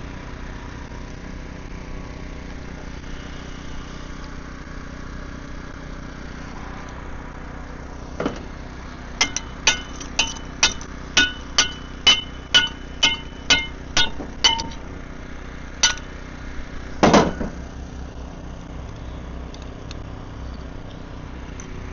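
Hammer striking steel: about a dozen sharp, ringing metallic blows at roughly two a second, one more strike after a pause, then a single heavier, duller knock. A steady low hum runs underneath.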